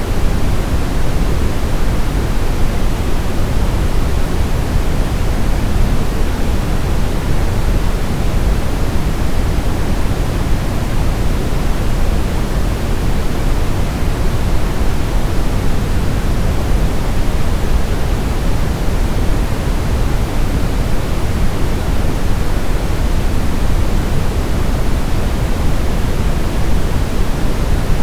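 Steady synthetic white noise for baby sleep, even and unchanging, weighted toward the low end so it sounds deep and soft like pink noise rather than hissy.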